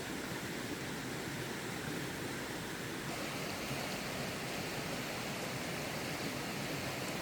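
Steady, even rushing noise, with a slight change in its tone about three seconds in.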